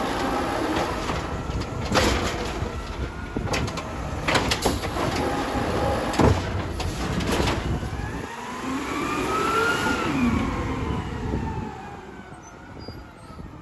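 Yard-waste garbage truck at work: a string of sharp metal clanks and bangs over the running engine, then a whine that rises and falls over a few seconds about two-thirds of the way in.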